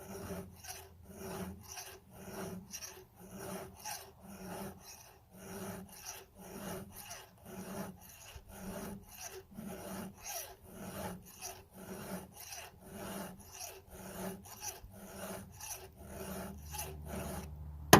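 Round chainsaw file rasping across a cutter tooth of a saw chain in repeated back-and-forth strokes, pushed down and back to dig into the gullet while sharpening a dull tooth. A sharp knock comes right at the end.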